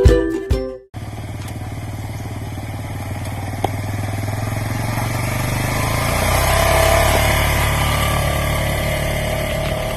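A motor vehicle's engine running steadily with a low pulsing rumble, swelling to its loudest about seven seconds in and then easing off. A short ukulele music intro cuts off about a second in.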